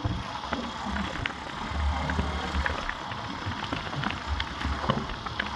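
Motorcycle riding along, with wind buffeting the microphone in an uneven low rumble and scattered sharp clicks over a steady hiss.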